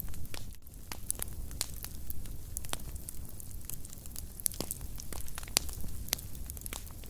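Fire burning in a fireplace, crackling with many irregular sharp pops over a steady low rumble of the flames; one pop about five and a half seconds in is the loudest.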